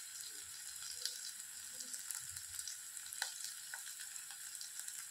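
Chopped green chillies, ginger and garlic sizzling in hot desi ghee in a kadhai: a steady high hiss with scattered small pops and crackles.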